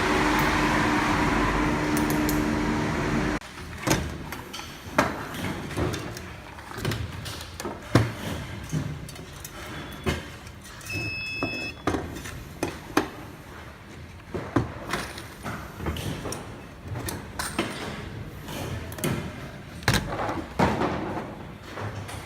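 A machine runs with a steady droning hum and cuts off suddenly about three seconds in. Then come irregular clanks, clicks and knocks of metal parts being handled.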